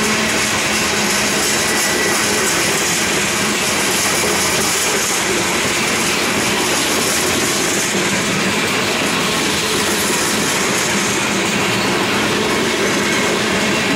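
Freight cars of a Norfolk Southern train, covered hoppers and then tank cars, rolling steadily past: a loud, even rumble of steel wheels on the rails with a clickety-clack from the rail joints.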